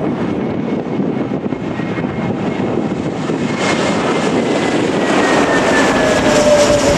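Jet airliner on final approach passing low overhead. The engine noise builds toward the end, and the fan whine slides down in pitch as the aircraft goes by.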